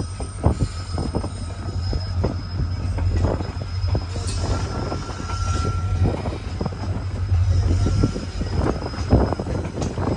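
An express train rolling past, its wheels knocking irregularly over rail joints over a steady low rumble, with faint thin squeals from the wheels.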